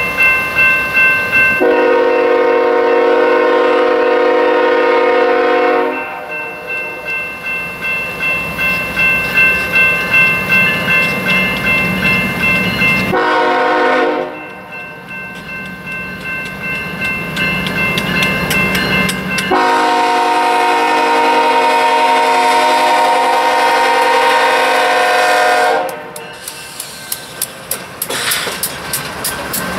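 Freight train locomotive horn sounding a long blast, a short one about eleven seconds later, and another long blast. Between the blasts the train's wheels rumble and click over rail joints in a steady rhythm, and the clicks come faster near the end.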